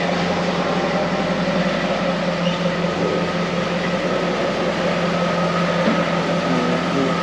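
A steady mechanical hum with a constant low tone and a fainter higher tone over an even rushing noise, unchanging throughout.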